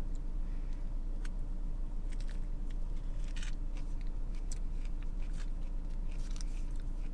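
A person chewing a mouthful of fruit-filled crepe with close mouth sounds: irregular small clicks over a steady low hum.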